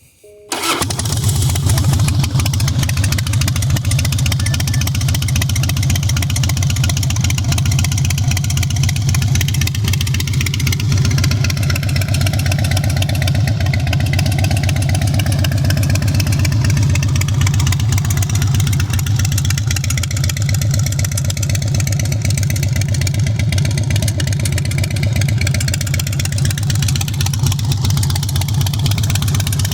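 Harley-Davidson Softail V-twin running through American Classic Motors Big Radius full exhaust with the baffles in; it starts up about half a second in and then idles steadily.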